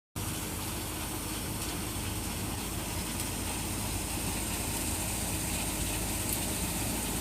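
Wheat-harvesting machine running steadily: an engine with even mechanical noise from the working machinery, starting abruptly after a split-second gap.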